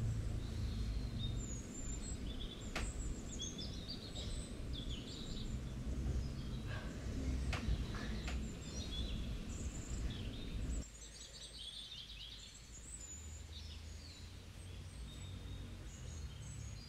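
Birds chirping outside, many short calls, over a steady low background hum that drops away suddenly about eleven seconds in.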